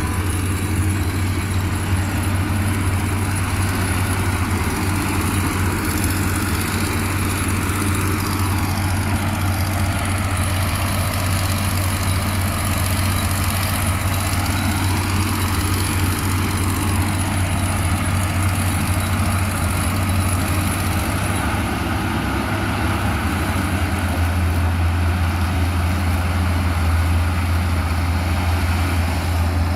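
Heavy construction machine's engine running steadily with a deep, even drone.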